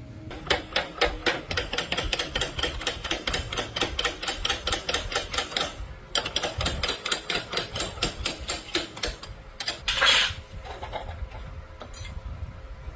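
Rapid, even tapping or knocking, about five strikes a second, in two long runs with a short break, followed by one short loud scraping burst.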